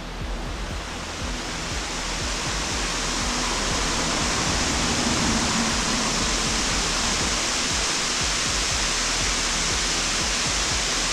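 Rushing water of a waterfall, a steady dense hiss that grows louder over the first few seconds and then holds.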